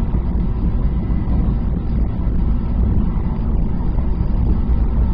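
A train travelling at speed, heard from inside the passenger carriage: a steady low running rumble with no breaks.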